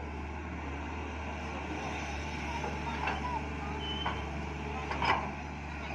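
Hitachi 200 excavator's diesel engine running steadily at work, with three sharp metal clanks about a second apart in the second half, the last the loudest.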